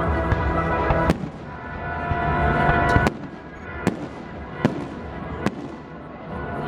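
Aerial fireworks going off, with about five sharp bangs spread across the few seconds, the loudest about a second in and about three seconds in. Between the bangs there is a continuous rumbling background that eases off after the first half.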